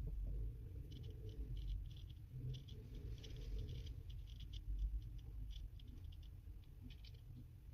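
Light clicking and scratching of small tools and parts being worked on a mobile phone during repair, in irregular runs of quick ticks over a low steady hum.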